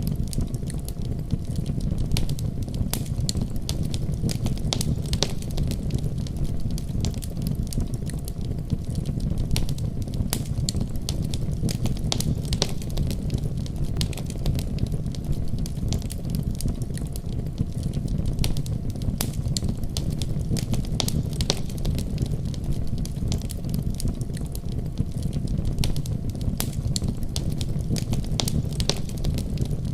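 Wood fire burning in a fireplace, crackling steadily with frequent sharp pops over a low rumble of the flames.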